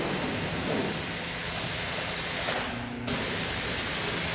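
Water spraying from a car-wash wand with a steady hiss, cutting out for about half a second near three seconds in.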